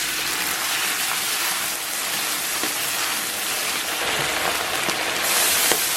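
Scallion and chili bean paste sizzling and crackling in hot oil in a pot, a steady frying hiss that grows brighter about five seconds in.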